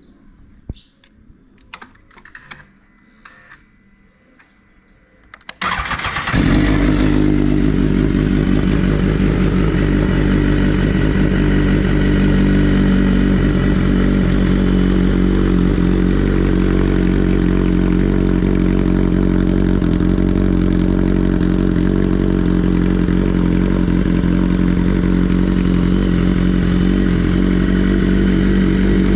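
2016 BMW S1000RR's inline-four, breathing through a full Akrapovic 4-into-1 exhaust, cold-started: after a few seconds of faint clicks it cranks briefly and catches about six seconds in, then idles steadily and loudly with no revving.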